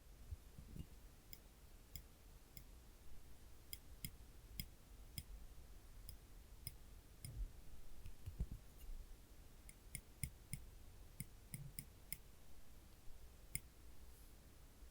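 Tweezers pressed and released, their tips clicking together in sharp, light clicks at an irregular pace of about one or two a second, with soft handling thumps underneath.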